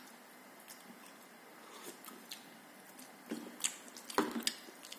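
A person eating: quiet chewing with a few faint clicks of cutlery against a plate, the sharper clicks coming in the last couple of seconds.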